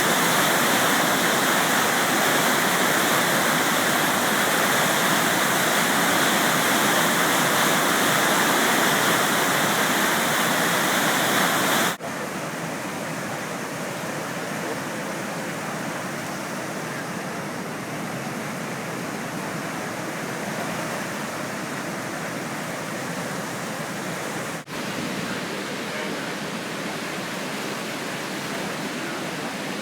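The Deerfield River in flood from hurricane rains, rushing in a steady roar of water. It drops noticeably quieter at an abrupt cut about twelve seconds in, with another momentary break near twenty-five seconds.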